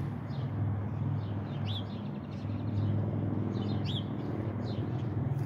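Small birds chirping in short repeated calls, over a steady low hum.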